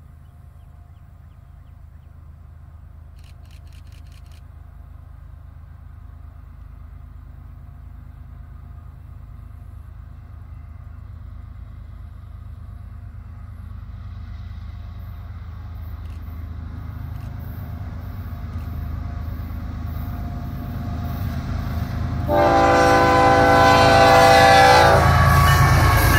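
Six BNSF diesel locomotives approaching and passing: their low engine rumble grows steadily louder. About 22 seconds in, the lead unit's air horn sounds one long blast of several tones together, lasting about three seconds, just as the units reach close by.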